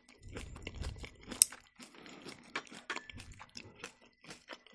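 A person chewing and crunching food with wet mouth clicks, many small irregular crackles, and one sharper click about a second and a half in.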